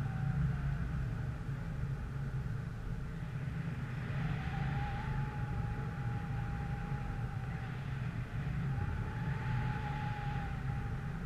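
Vehicle running with a steady low rumble, wind buffeting the microphone; a thin steady whine comes in about four seconds in, fades out, and returns for a couple of seconds near the end.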